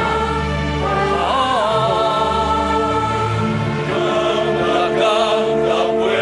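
Choir singing long held chords over a steady low bass, with one voice wavering in pitch about a second in.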